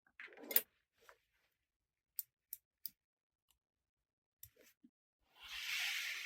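Play-Doh and its plastic toy tools being handled: a brief rustle at the start, three sharp clicks about two to three seconds in, then a longer hissing swish near the end.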